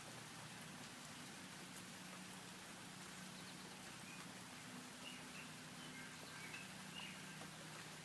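Faint, short chirps from small birds, scattered through the middle and later part, over a steady hiss and a low, steady hum.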